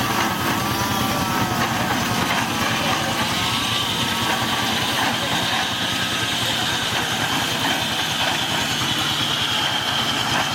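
Engine running steadily at a low idle. A steady high whine comes in a few seconds in.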